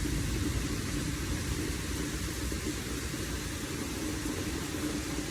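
Steady rainstorm with a continuous low rumble and an even hiss, joined by a faint steady hum.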